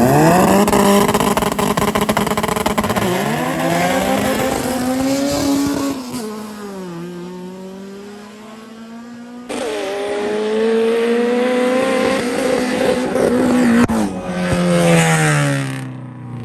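Drag-race cars, a Honda B-series car and a single-turbo rival, accelerating hard at full throttle. The engine pitch climbs and drops back at each gear change, then the sound fades near the end as the cars pull away.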